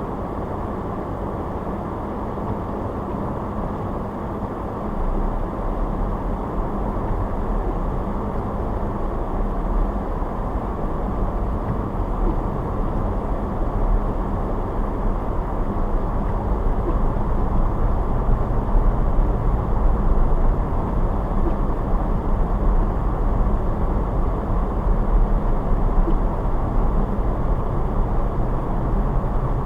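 Steady car road noise while driving, tyre and engine rumble, with the low rumble growing louder about five seconds in and building gradually after that.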